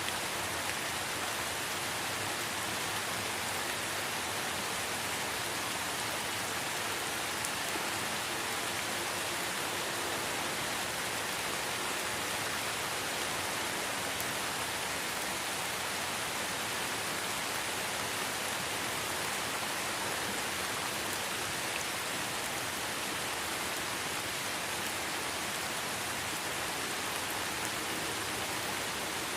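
Light rain falling steadily in a forest, an even hiss of many small drops pattering on leaves, with faint scattered drip ticks.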